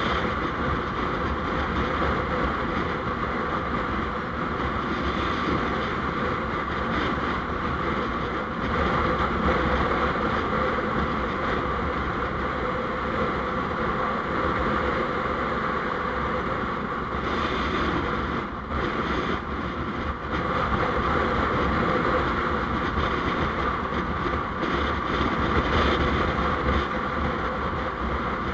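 Steady road and wind noise from a moving vehicle, with wind buffeting the microphone, briefly easing a little past halfway.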